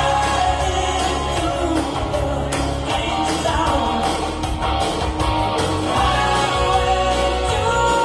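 A rock band playing live: electric guitars, bass and drums, loud and steady.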